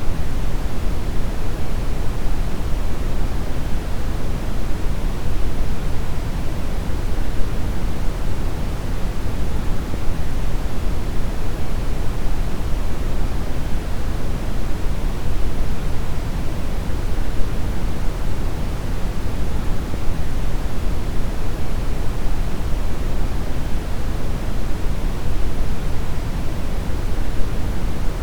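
Brown noise: a steady, even rush of synthetic noise weighted heavily toward the low end, with no tones, events or changes.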